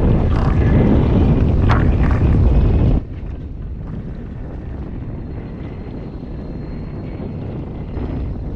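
Wind buffeting the microphone on an open boat, a loud low rumble that drops suddenly about three seconds in to a quieter steady rush of wind and water.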